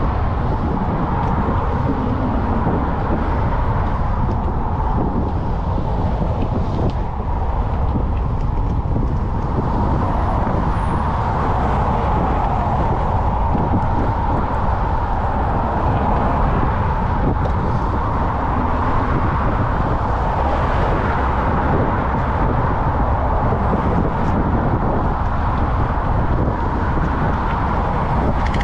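Steady wind rush and rolling road noise from a moving bicycle, picked up by a bike-mounted action camera, with road traffic in the mix.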